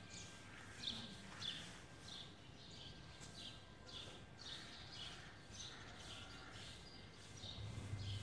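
Faint outdoor background with a small bird chirping repeatedly, short high chirps about once a second, over a low steady hum.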